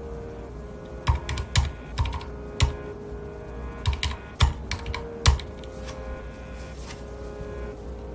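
Typing on a mechanical keyboard with red (linear) switches: a quick, irregular run of about a dozen keystrokes between roughly one and five seconds in, then a pause with no keys struck.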